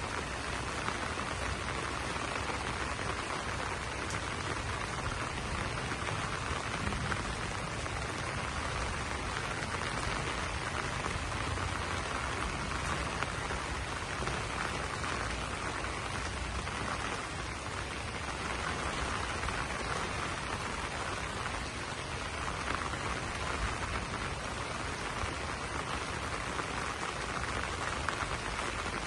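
Steady rain falling on banana leaves, a dense even patter of drops.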